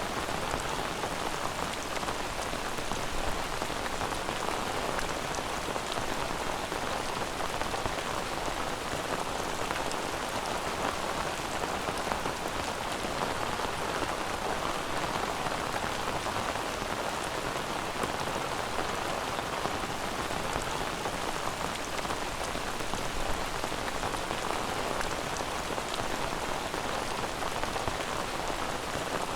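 Steady rain, an even patter of drops that holds at one level throughout.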